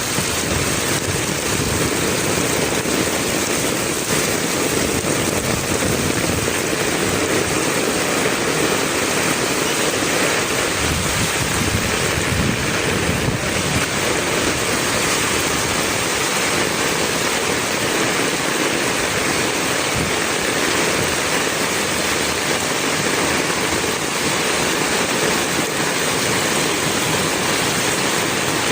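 Heavy rain falling steadily: a dense, even downpour hiss.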